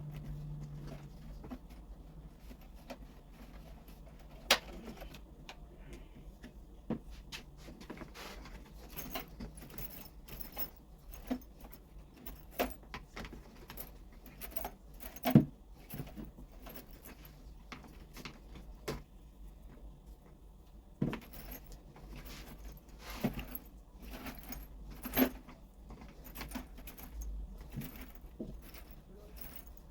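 Irregular clinks, clicks and knocks of small metal parts and tools being handled at a workbench during an angle grinder repair, with one sharp knock about fifteen seconds in. A low hum stops about a second in.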